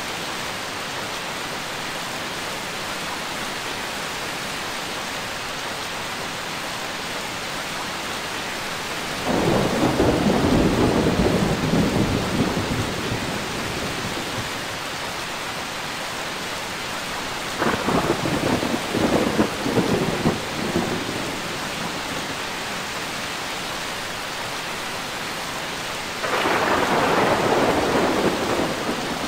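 Steady heavy rain with three rolls of thunder: a long rumble about a third of the way in, a crackling, broken one a little past halfway, and another rumble near the end.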